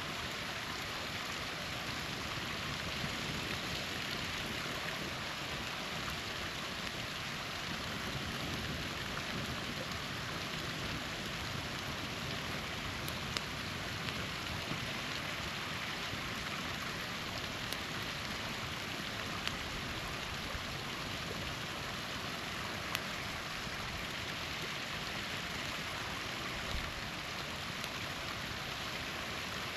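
Small waterfall rushing steadily, with a few sharp pops from a campfire crackling.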